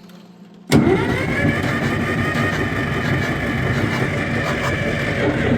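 1959 John Deere 830's two-cylinder diesel engine starting from cold. It comes in suddenly, loud, just under a second in, then runs steadily.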